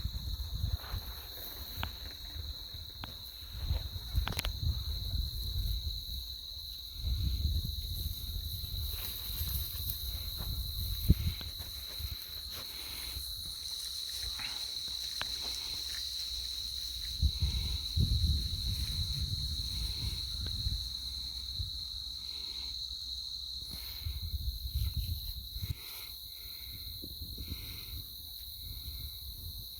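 Insects drone steadily on one high, unbroken pitch. Wind rumbles on the microphone in irregular gusts underneath.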